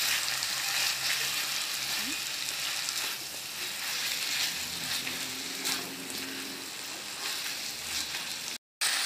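Sliced rattan and tuhau shoots sizzling in a wok as they are stirred and tossed with a spatula. The sound cuts out briefly near the end.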